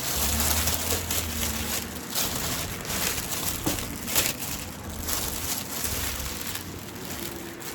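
Plastic gift-basket bag crinkling and rustling as a basket is worked down into it, in an irregular run of rustles.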